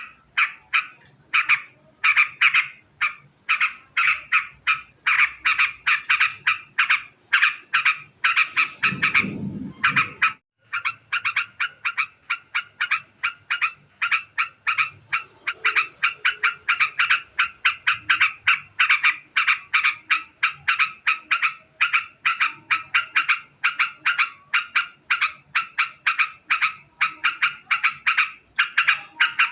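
A trucukan (yellow-vented bulbul) chattering in a long, very fast run of short repeated notes, about four a second, with a brief pause about ten seconds in. A short low rumble comes just before the pause.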